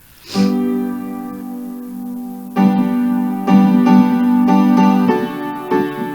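Piano playing slow, held chords, a new chord struck about every second from roughly two and a half seconds in.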